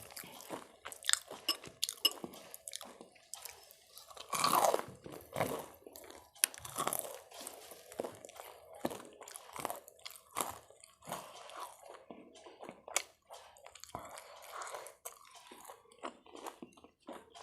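A person chewing and biting crunchy food close to the microphone: irregular wet crunches and clicks, with a longer, louder crunching stretch about four seconds in.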